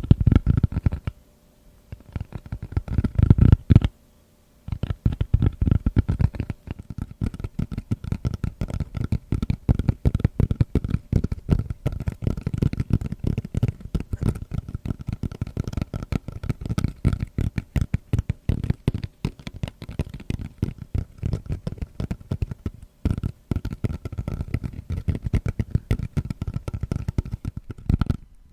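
Rapid fingertip tapping on a tatami mat's woven rush surface: two short bursts, then a steady dense flurry of soft taps.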